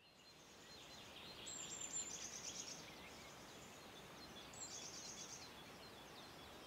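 Faint outdoor birdsong: a songbird sings two short high trilled phrases, about three seconds apart, with scattered chirps from other birds over a light background hiss.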